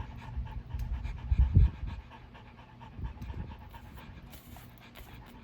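A dog panting, with a couple of low thumps about one and a half seconds in.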